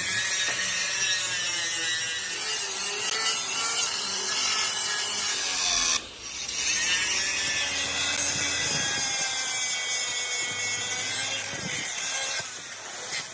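Power tool grinding or cutting steel: a continuous rasping hiss with a wavering high whine, stopping briefly about six seconds in, then running again until shortly before the end.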